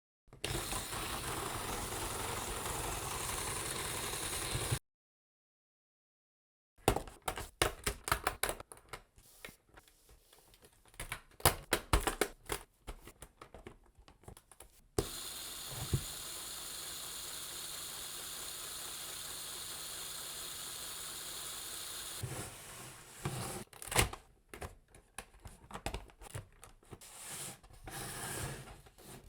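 Lego Technic parts clicking and rattling in dense, irregular bursts, between stretches of steady hiss. The sound cuts out completely for about two seconds near the start.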